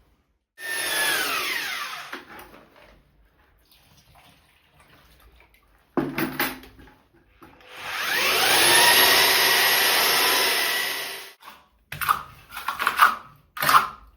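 Electric power tool motor: a short run whose pitch falls as it winds down, then a longer run that speeds up, holds steady for about three seconds and cuts off abruptly. Knocks and clatter before and after the runs.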